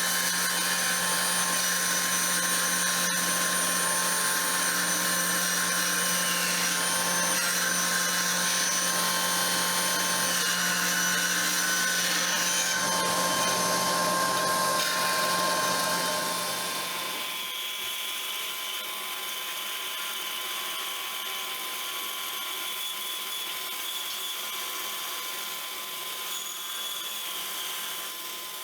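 An electric power tool's motor running steadily. About 17 seconds in it drops to a quieter, steady run.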